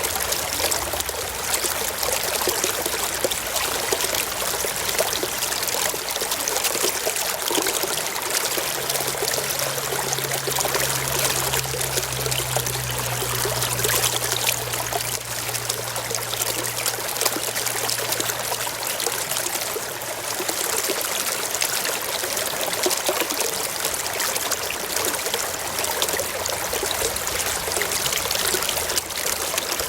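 Forest stream flowing and trickling over rocks, a steady rush of water. A faint low hum rises under it about eight seconds in and fades out around twenty seconds.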